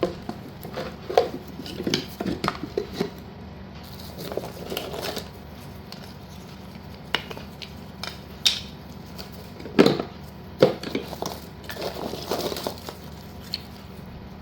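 Irregular clicks, knocks and clinks of hard slate pieces in their packets being handled and set down, in scattered clusters.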